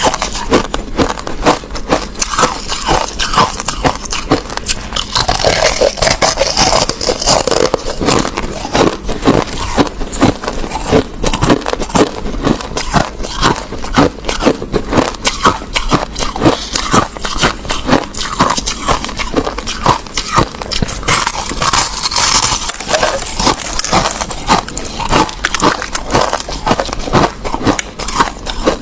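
Crushed ice being bitten and chewed close to the microphone: a continuous stream of rapid, sharp crunches and crackles.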